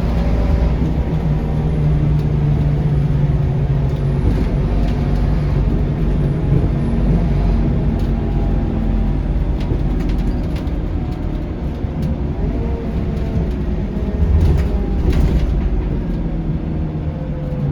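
Scania K230UB city bus's diesel engine and drivetrain heard from on board while the bus drives. The engine note shifts and rises at times over a steady low road rumble, with a few light rattles and knocks.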